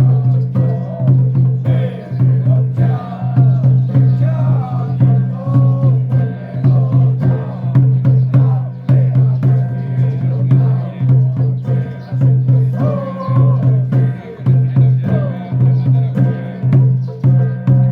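Taoist ritual music of a xiaofa troupe: chanting voices over drum and wood-block strikes, with a loud steady low hum that drops out briefly every second or two.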